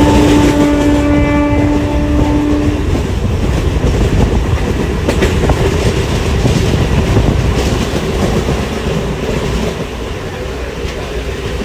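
A horn sounds one steady note for about three seconds at the start, over loud, continuous rumbling noise that runs on after it.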